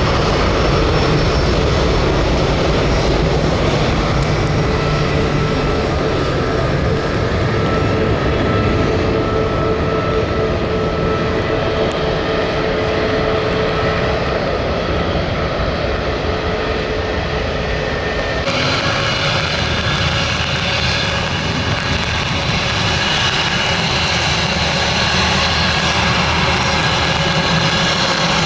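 Jet airliner engines running loud and steady, with a few held whining tones over a heavy rush of noise; the sound turns abruptly brighter and hissier about two-thirds of the way through.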